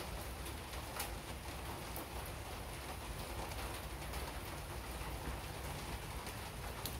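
Steady rain falling on wet paving, with a few sharper single drop taps now and then, one near the start and one about a second in.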